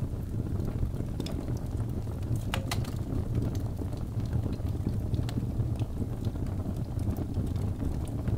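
Wood fire burning in a fireplace: a steady low rumble of the flames with scattered sharp crackles and pops, a small burst of several pops about two and a half seconds in.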